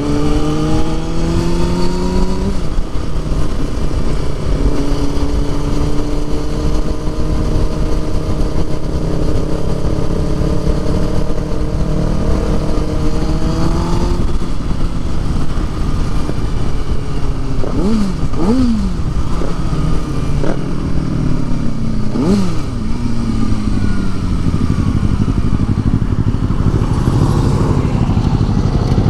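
Motorcycle engine under way, rising in pitch as it accelerates at the start and again about halfway, holding steady in between, with two quick swings in revs in the second half before the revs fall off. Steady wind rush on the microphone underneath.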